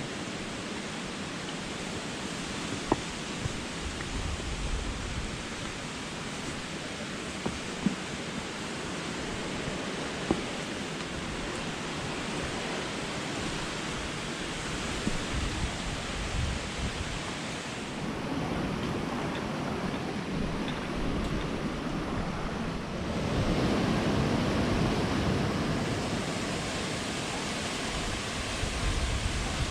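Waterfall: a steady rush of falling water, louder and deeper for a few seconds about three-quarters of the way through. A few short, sharp clicks stand out in the first third.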